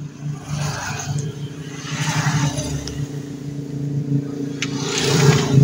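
A motor vehicle engine running steadily, growing louder toward the end, with scraping and a couple of sharp metal clinks from work under a car.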